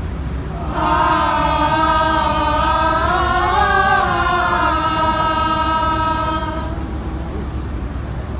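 Choir singing one long held phrase that comes in about a second in, rises in pitch near the middle and falls away near the end, over a steady low rumble.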